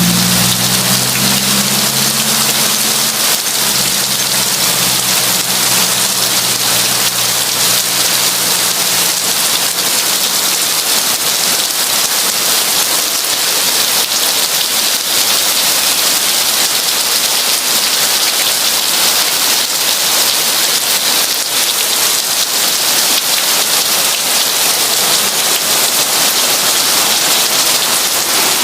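Heavy rain falling steadily in a dense, even hiss. A low rumble at the start fades away over the first few seconds.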